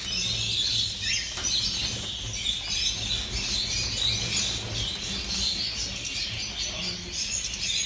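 Many caged songbirds chirping and twittering at once in a dense, continuous chorus, over a low background hum.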